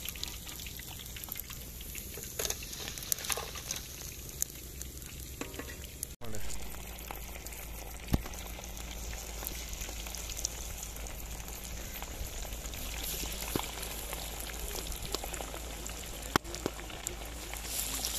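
Masala-coated fish pieces deep-frying in a karahi of hot oil: a steady sizzle with scattered sharp pops and crackles.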